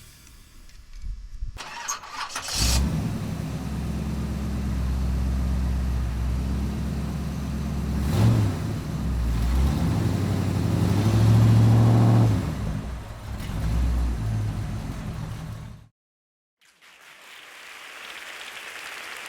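Iveco Daily's F1A 2.3-litre diesel engine starting about two seconds in, then running with its revs rising twice, and cut off suddenly near the end. A steady hiss follows.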